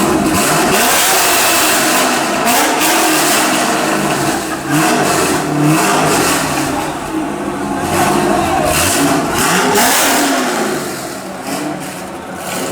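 Chevrolet Corvette C6 Z06's 7.0-litre LS7 V8 through a Corsa Performance exhaust, revved again and again, its pitch rising and falling with each rev.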